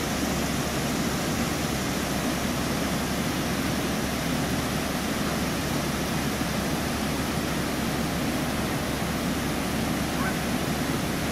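Steady rush of water pouring over a small waterfall.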